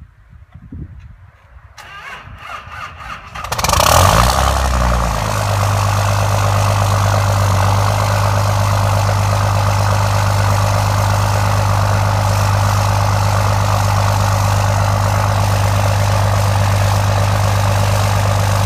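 2005 Dodge Ram 3500's 5.9 Cummins diesel, straight-piped through a 5-inch exhaust, cold-started at −6 degrees without a block heater: the starter cranks for about a second and a half, the engine catches about three and a half seconds in and flares, then settles into a steady, loud idle.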